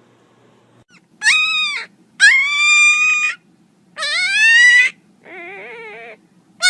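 A pet animal's drawn-out, high-pitched cries: four separate calls, the first three loud and sliding in pitch, the fourth lower, quieter and wavering, with another call starting at the very end.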